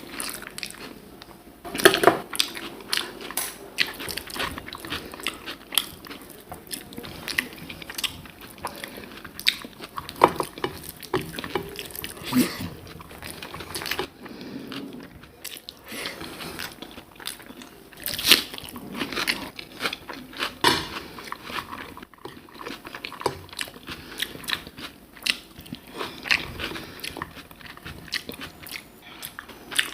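Close-miked eating sounds: a person chewing and biting food, with frequent irregular crunches and clicks and a few louder bites now and then.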